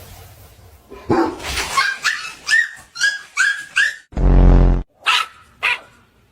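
Dogs at play, yipping and barking: a quick run of short high-pitched yaps, then one loud deep bark, then two more sharp yaps.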